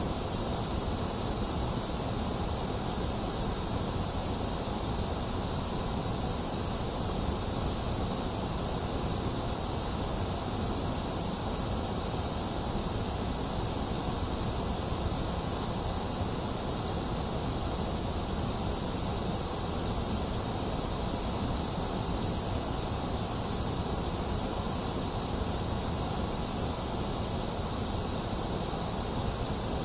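Box fan running with a steady whoosh, mixed with steady rain hiss; the sound holds even, with no thunder or other sudden sounds.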